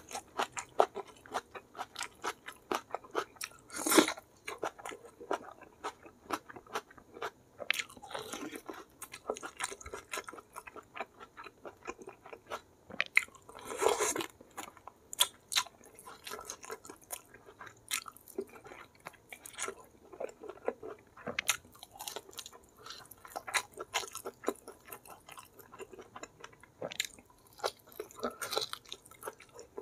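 Close-miked chewing and lip-smacking of a mouthful of rice and goat curry eaten by hand: a dense run of wet clicks and smacks, with louder bites about four seconds in and again near fourteen seconds.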